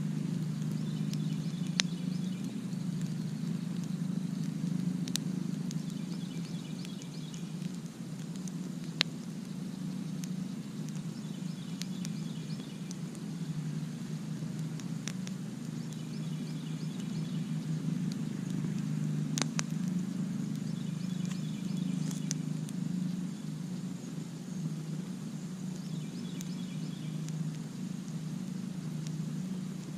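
Campfire burning, with sharp crackles and pops every few seconds over a steady low rumble. A high chirping trill repeats about every four to five seconds.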